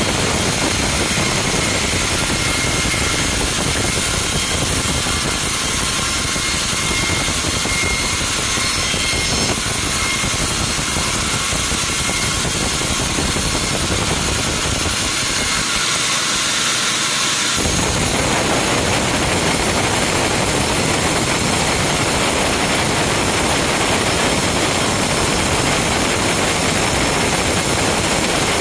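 Sawmill machinery running with a loud, steady mechanical noise. The sound changes abruptly about two-thirds of the way through, becoming fuller in the low and middle range.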